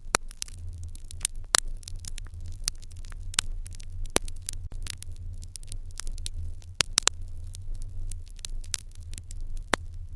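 Fire in an irori hearth crackling, with many irregular sharp pops over a steady low rumble.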